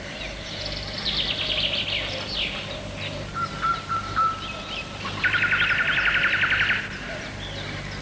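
Birdsong of chirps and rapid trills with a short whistled note, the loudest part being an even, fast trill lasting about a second and a half, about five seconds in.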